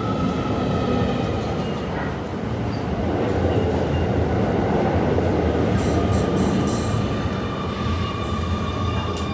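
Keio 9000 series ten-car electric train moving through the station: a steady rumble of wheels on rails with a faint steady whine, and a few short high squeals about six seconds in.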